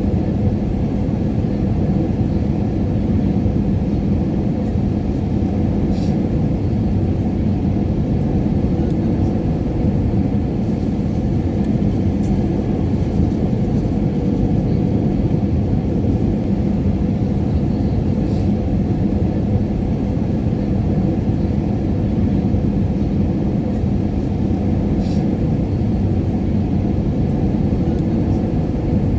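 Airliner cabin noise in flight: a steady, even rumble of engines and airflow, with a few faint clicks.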